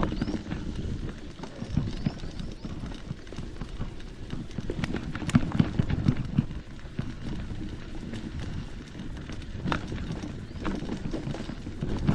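Footsteps of a hiker walking a trail: a run of uneven thuds and scuffs, with a few sharper clicks.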